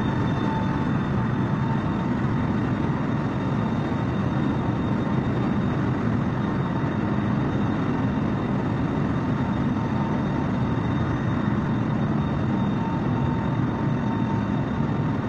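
Jet airliner's engines running at a steady level: an even drone with a faint, steady high whine over it.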